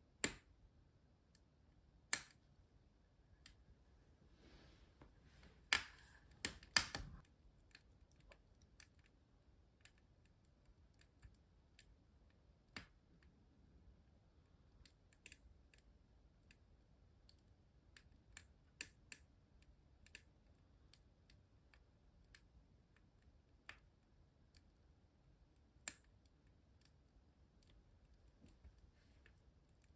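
Wood fire in a fireplace crackling quietly, with sharp irregular pops and ticks. A cluster of louder pops with a short hiss comes about five to seven seconds in.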